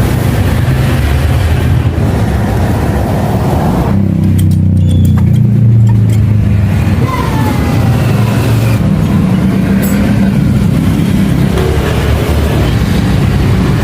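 A motor engine running steadily with a low hum, swelling louder for a few seconds around the middle.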